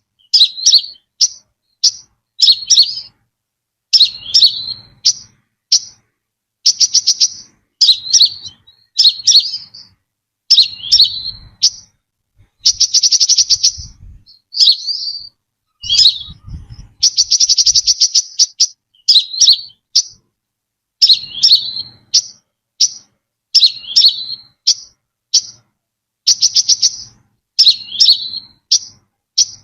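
Brown-throated sunbird calling: bursts of rapid, high chipping notes, each lasting about a second, repeated with short gaps. Some bursts end in a quick downward-sliding note.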